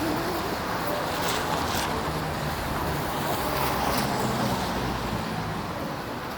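City street traffic on a wet road: a steady hiss of tyres on wet pavement, with the low hum of a vehicle's engine passing in the middle.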